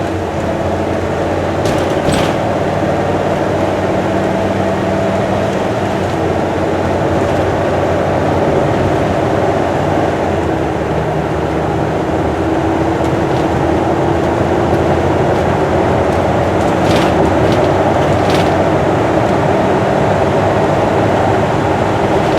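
Steady highway driving noise heard from inside the vehicle: an even engine drone under tyre and road noise, with a few faint clicks.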